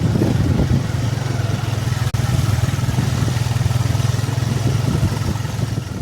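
Motorcycle engine running steadily while riding on a rough gravel road, with wind and road noise; the sound drops out for an instant about two seconds in and fades near the end.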